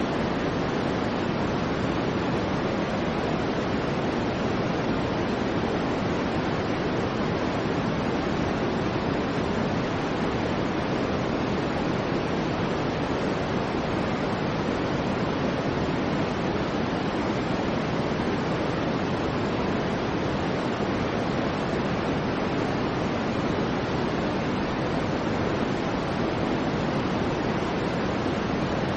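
Soft white noise playing steadily: an even rushing hiss, heaviest in the low-middle range, with no rhythm or change.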